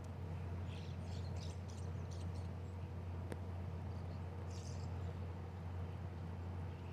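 Small birds chirping faintly, a flurry of short high calls in the first couple of seconds and another about four and a half seconds in, over a steady low hum.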